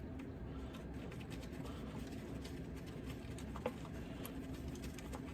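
Faint, scattered light clicks and scratches of hand work under the car, fitting the 10mm bolt of a plastic starter cover, with one slightly sharper click a little past halfway. A steady low hum runs underneath.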